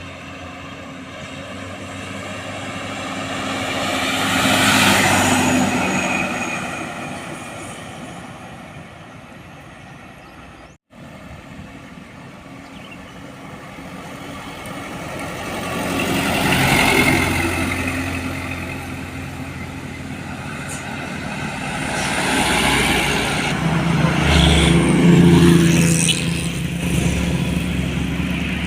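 Large trucks passing by on a road one after another, each engine and its tyre noise swelling up and fading away: three pass-bys, the last one longer and the loudest.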